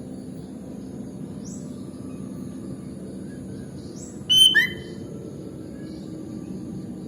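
Sooty-headed bulbul giving one short burst of loud chirping notes a little past halfway, with faint high chirps before it, over a steady low background hiss.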